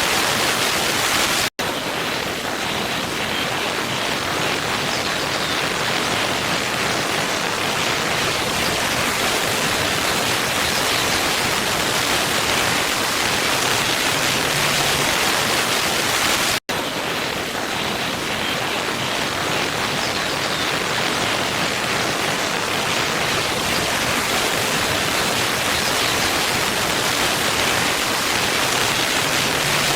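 Steady rush of a waterfall: an even, continuous hiss of falling water. It drops out to silence for a split second twice, once near the start and once about halfway through.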